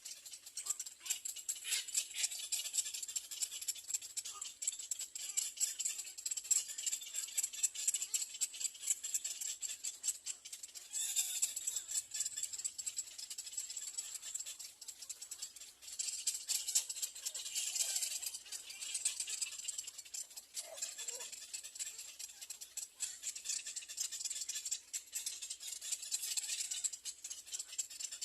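Little egret nestlings begging for food: a rapid, dry, rattling chatter that swells louder several times.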